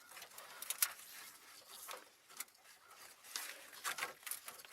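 Irregular light clicks and rustles of hands working at a car's fuel lines, with one sharper click about a second in and a few more near the end.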